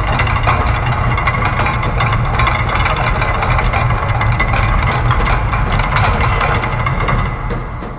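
Layered loops of factory machine sounds: a dense clatter of rapid mechanical clicks and ticks over a steady low machine hum. Near the end it thins out and gets quieter.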